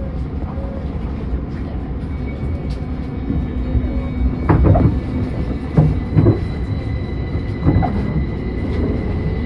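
Tobu 30000-series electric train running, a steady low rumble of wheels and car body with a thin, steady high whine joining about two seconds in, from the traction equipment driven by permanent-magnet synchronous motors.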